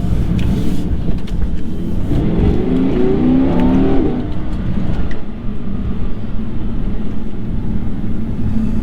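Audi R8 driving on a test run: the engine note rises as it accelerates for a couple of seconds, then settles back to a steady low drone of engine and road noise. No clicking comes from the freshly replaced front differential.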